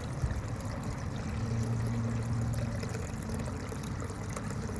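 Water running and trickling steadily, with a low hum that swells for a second or two in the middle.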